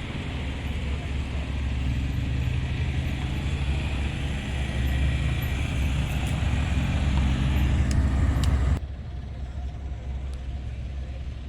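A car engine running, growing louder over several seconds, then cut off abruptly near the end, leaving a quieter background.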